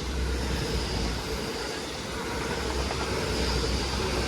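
GWR Class 800 bi-mode train passing through without stopping, running on its diesel engines: a steady rumble of engines and wheels on the rails with a faint steady whine.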